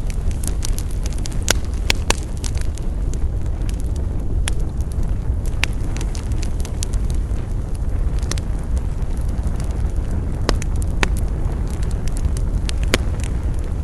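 Wood campfire burning: a steady low rush with sharp crackles and pops every second or two.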